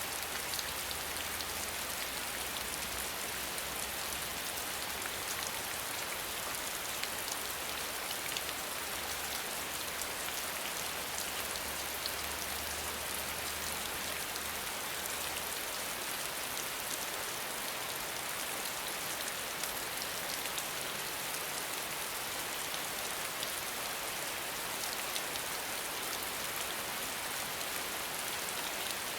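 Steady rain falling: an even hiss with a fine patter of individual drops. A faint low hum underneath stops about halfway through.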